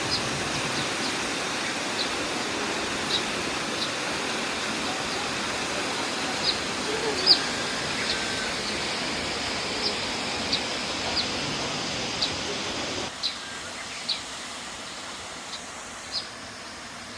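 Steady rush of a waterfall, with short high chirps about once a second over it. About two-thirds of the way through, the water noise drops to a lower level while the chirps go on.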